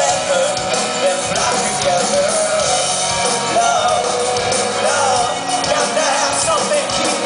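Live rock band playing at full volume, with singing over it.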